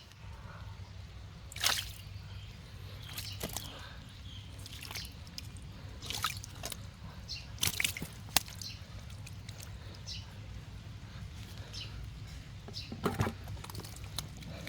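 Scattered splashes and drips of water, a dozen or so irregular strokes with the loudest near the start and about two-thirds of the way through, over a low steady hum.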